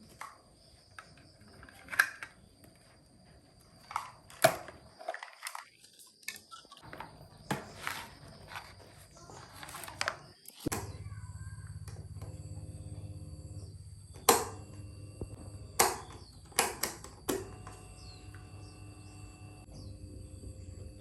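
Scattered clicks and knocks of small parts being handled, then about ten seconds in a steady low electric-motor hum switches on and keeps running, with a few sharp knocks over it: the repaired old electric fan running.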